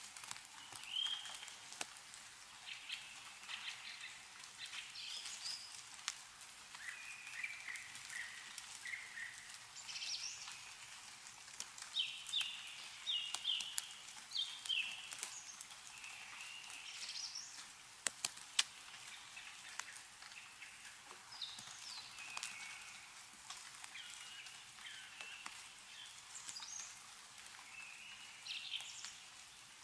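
Meltwater dripping from snow-laden trees in scattered sharp drips, two louder ones a little past halfway, while small birds chirp and call on and off.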